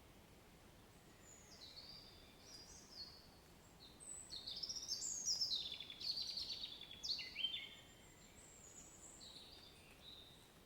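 A bird singing a run of short, high notes, many of them stepping down in pitch, loudest about halfway through, over a faint steady hiss.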